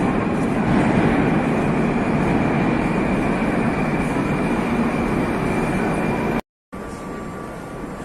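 Metro train running along the platform with a loud, steady rumble and a faint high whine. About six seconds in, the sound cuts out abruptly, then carries on as quieter steady station noise.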